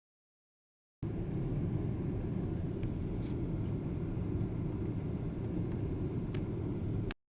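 Steady low rumble of engine and airflow noise inside an airliner cabin, with a few faint ticks. It starts about a second in and cuts off abruptly near the end.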